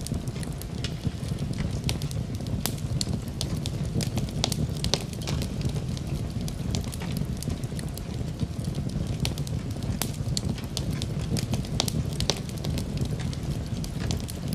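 Wood fire in a fireplace crackling, with frequent irregular sharp pops over a steady low rumble, mixed with steady rain.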